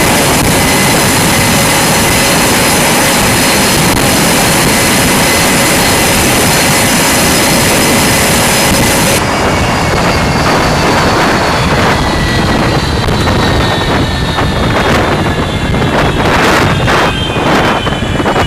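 Jet engine noise on a carrier flight deck: a loud, steady roar with a high whine. About halfway through it cuts to a gustier roar whose whine slowly falls in pitch, with wind buffeting the microphone.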